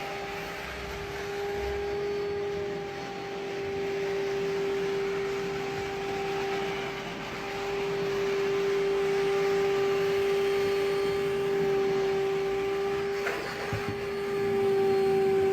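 Electric motor of water-extraction equipment running steadily with a constant whine. A brief knock comes about thirteen seconds in.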